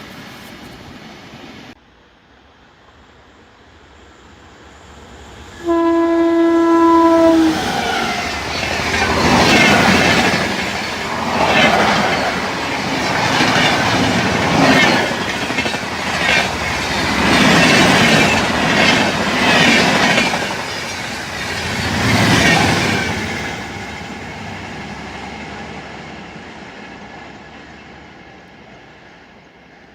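An Indian Railways train gives one horn blast of about a second and a half as it approaches, then passes at speed with loud, rhythmic wheel clatter over the rail joints. The clatter fades away near the end.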